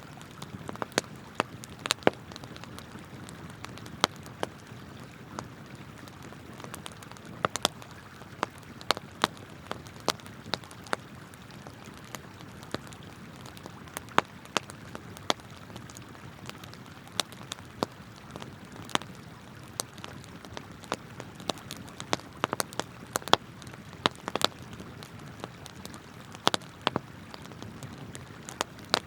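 Wood campfire burning with sharp, irregular pops and crackles over a steady low rush of flowing river water.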